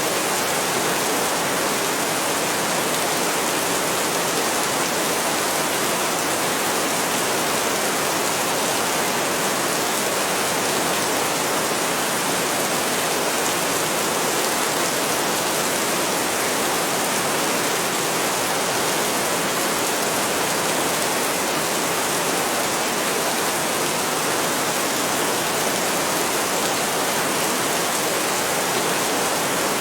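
Heavy rain falling steadily: a dense, even hiss with no changes in strength.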